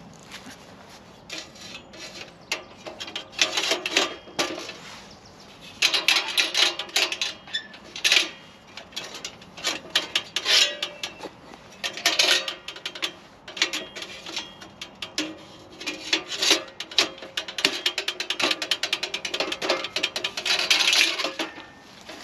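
Irregular bouts of scraping and rubbing mixed with sharp clicks and clinks, as of hand work with hard objects.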